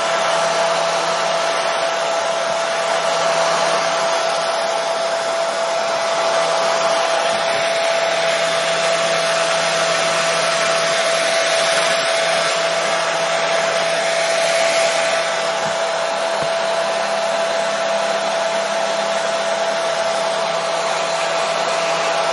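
Hair dryer running steadily: an even rushing of air with a steady motor whine.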